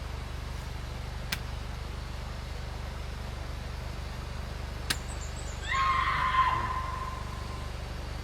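A single strange high call, about a second long, sounding a little past halfway through and ending on a held note, over a steady low hum with two sharp clicks before it.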